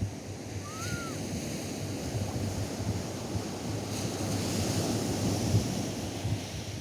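Atlantic surf washing onto a sandy beach, swelling as a wave breaks and runs in past the middle, with wind buffeting the microphone. A brief faint chirp rises and falls about a second in.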